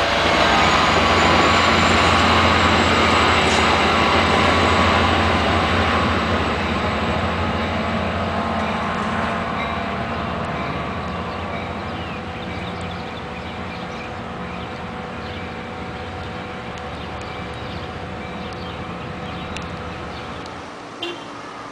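NJ Transit commuter train of passenger coaches rolling past close by and moving away, a steady low hum and rail noise with several high ringing tones, fading steadily. The low hum drops away suddenly near the end.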